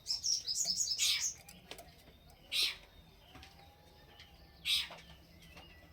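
Small songbird chirping: a quick run of high chirps over the first second, then two short harsh calls, one about two and a half seconds in and one near the end.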